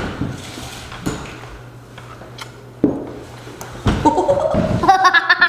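A few scattered knocks and clatters over a low room hum, then from about four seconds in, rapid giggling.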